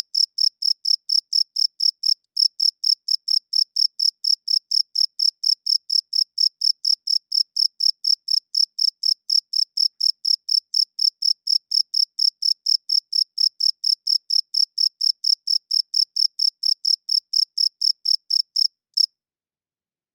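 Cricket chirping: a steady train of short, high-pitched chirps, about four to five a second, with a brief pause about two seconds in; the chirping stops abruptly near the end.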